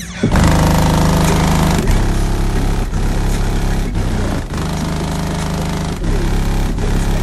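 Bass-heavy music played very loud through a car audio system of six JVF Customs 3.3 12-inch subwoofers in a sixth-order bandpass box on 15,000 watts. Deep held bass notes change about every second, under a harsh, distorted noise layer.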